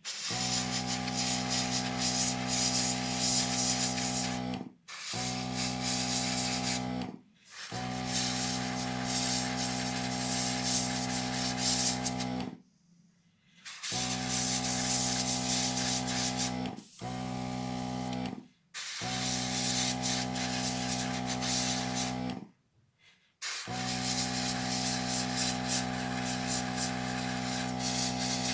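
An airbrush compressor runs with a steady hum while air hisses through the airbrush as it sprays thin coats of glass paint. It comes in stretches of a few seconds, each cut off sharply by a short silence.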